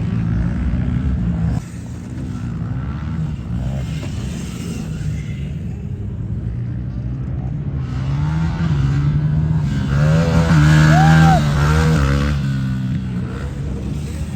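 Small four-stroke pit bike engine revving up and down as it rides the track, with its loudest rev rising and falling about ten seconds in.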